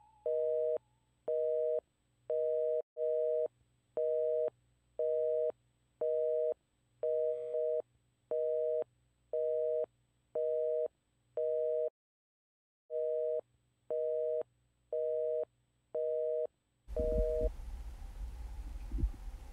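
North American telephone busy signal: a two-note tone beeping on and off steadily, about once every three-quarters of a second, with a pause of about a second past the middle. It stops about 17 seconds in, giving way to hiss and a low, irregular throbbing rumble.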